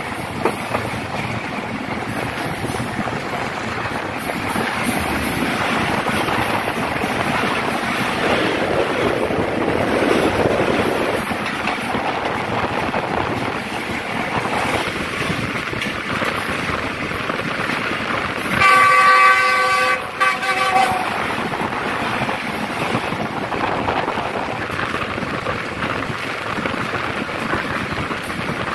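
Steady rush and rumble of a passenger train running at speed, heard from an open coach door, with a train passing on the next track adding to the noise. About two-thirds of the way through, a train horn sounds once for about two seconds.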